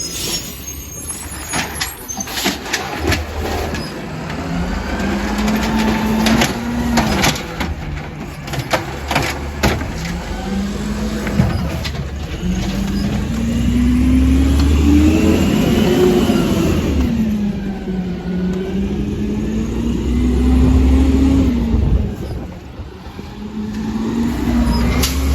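Compost collection truck's engine revving up and falling back several times, with sharp knocks and clanks during the first half.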